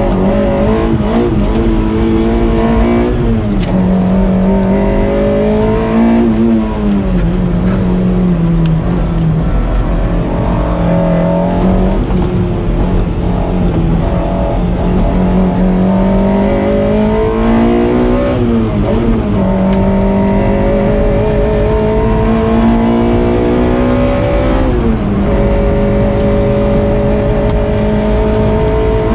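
Onboard sound of a Toyota MR-S's swapped-in 2ZZ-GE 1.8-litre four-cylinder engine driven hard, the revs climbing and then dropping sharply several times with gear changes and throttle lifts. The note falls about 3, 6, 18 and 25 seconds in, then rises slowly near the end.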